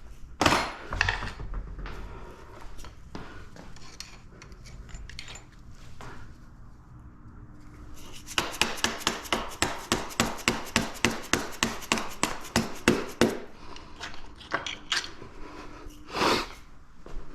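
Hand tools working on the dirt bike's bolts as they are broken loose: scattered metal knocks and clinks, then a run of rapid even clicks, about six a second, for some five seconds in the middle, and one sharper knock near the end.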